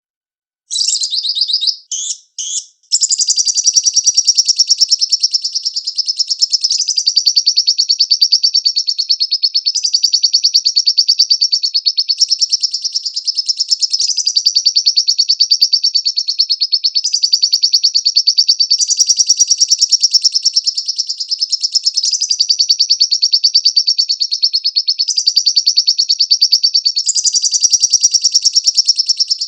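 Lovebird singing a long, fast, high-pitched chattering trill. It starts a moment in, breaks off twice briefly, then runs on without a pause.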